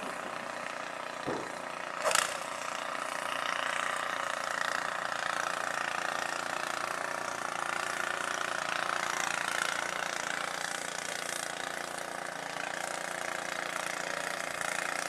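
Snow blower's small engine running steadily at an even speed. A single sharp knock sounds about two seconds in.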